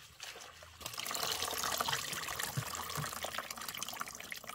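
Water running and splattering steadily, with scattered drips. It gets louder about a second in.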